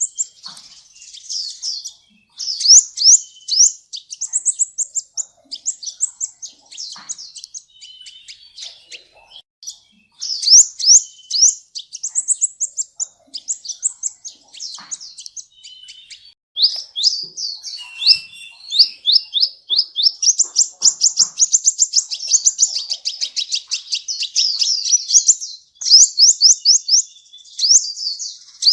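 Sunbird ('kolibri ninja') singing: rapid runs of high, sharp, sweeping chirps, broken by short pauses, with a long, fast, even trill about two-thirds of the way through.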